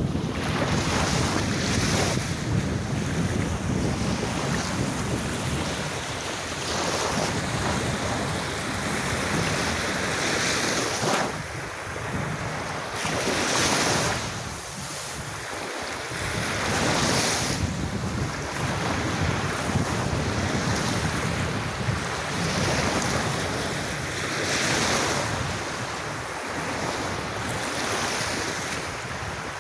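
Calm sea waves washing onto a sandy beach, each wash swelling and fading every few seconds, with wind rumbling on the microphone.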